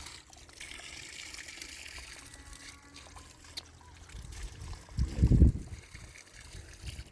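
Water trickling steadily from a spring or small stream. A brief low rumble about five seconds in is the loudest sound.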